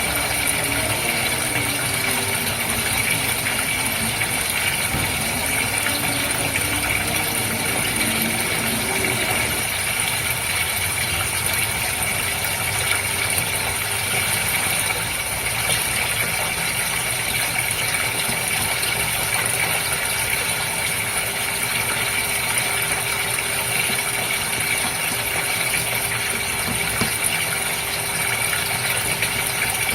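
Fish-tank water running and bubbling over the steady hum of its pump; a single steady pump tone settles in about a third of the way through.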